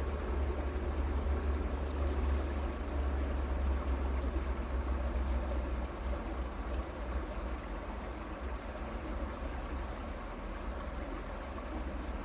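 Stream water flowing steadily, a constant rushing with a deep low rumble underneath.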